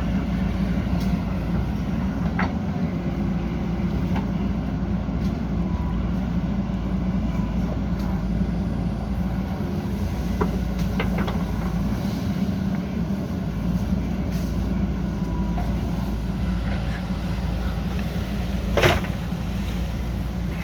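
JCB backhoe loader's diesel engine running steadily under work, with a few metallic clanks and knocks; one sharp knock near the end is the loudest.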